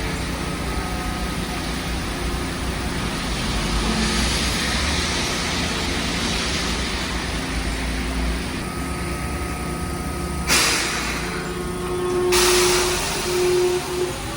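Street tram and road traffic on a wet street: a steady rumble with the hiss of wet rails and road, two short sharp air hisses about ten and twelve seconds in, and a steady whine near the end.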